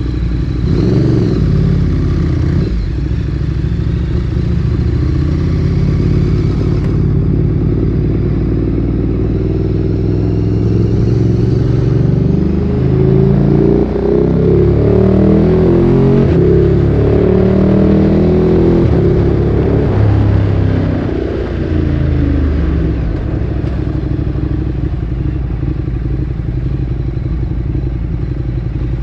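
Ducati Streetfighter 848's L-twin engine through a Termignoni exhaust, running under way. From about 12 to 20 seconds in, the revs climb and drop again and again as the bike accelerates through the gears, then ease back to a steadier, lower run.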